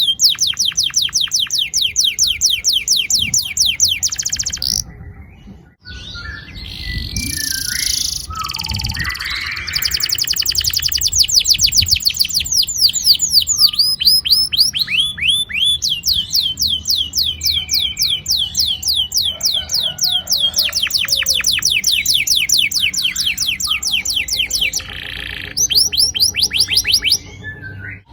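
Domestic canary singing long rolls: fast runs of a rising high note repeated many times a second, broken by a short pause about five seconds in and by shorter varied phrases between the rolls.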